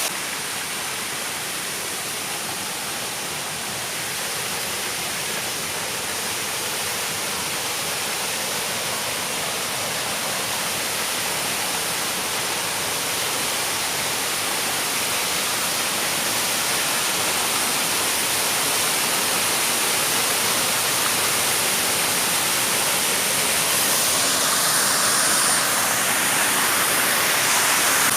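A waterfall rushing, a steady, dense roar of falling water that grows a little louder toward the end.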